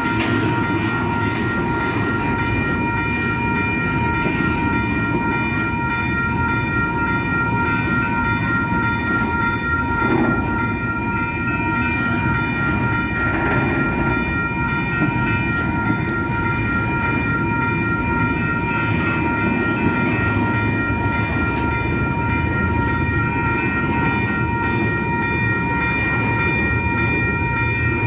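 Double-stack container train rolling steadily past: a continuous rumble of well-car wheels on the rails, with several steady high ringing tones over it.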